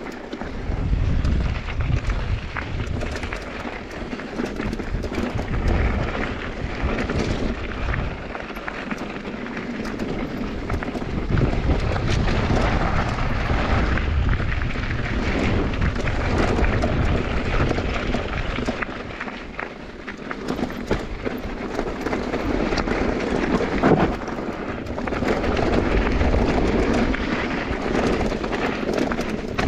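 Mountain bike riding down a bike-park trail: tyres rolling over dirt and gravel, with the bike rattling and knocking over bumps and wind buffeting the microphone in rumbling gusts.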